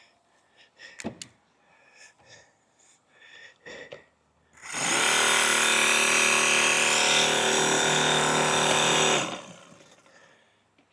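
Battery-powered Stihl mini pruning chainsaw run steadily for about five seconds, its chain freshly oiled, then released and winding down. A few light handling clicks come before it starts.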